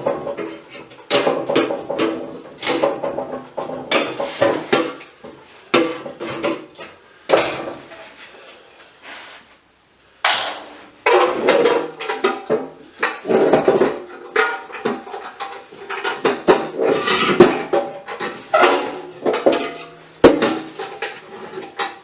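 Repeated metal knocking and clanking as scrap is hammered and pried apart with hand tools, each strike ringing briefly. It eases off to a quiet spell about halfway through, then starts again.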